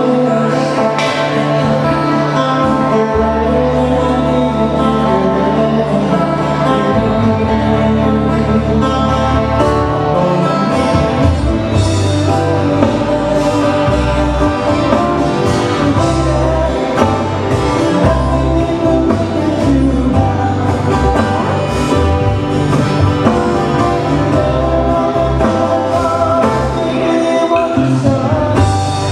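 Hawaiian band music: plucked-string guitars over a moving bass line, with singing.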